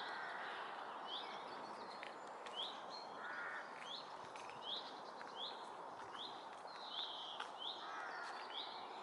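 A songbird repeating one short, high note over and over, about one and a half times a second, with a few softer chirps from other birds and a steady outdoor hiss beneath.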